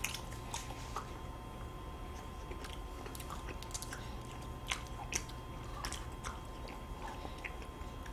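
Close-up chewing and biting of chocolate-cookie ice cream sandwiches: soft, wet mouth sounds with scattered small clicks and smacks.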